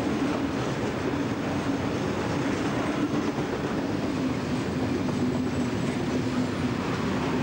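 Freight train of tank wagons rolling past close by: a steady rumble of steel wheels on the rails with a steady low hum.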